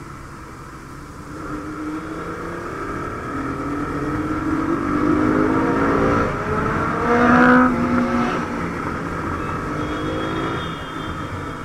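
Motorcycle engine accelerating, its pitch rising over several seconds and loudest about two-thirds of the way in, then easing off, over steady wind and road noise.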